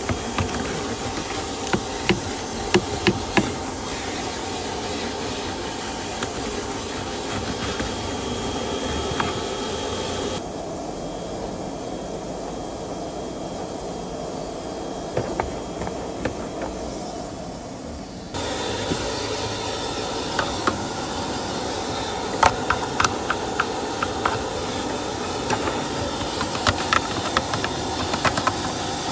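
Car wash vacuum running as a car's interior is vacuumed: a steady hiss with scattered sharp clicks. For about eight seconds in the middle the hiss turns duller, its high part dropping away, then comes back.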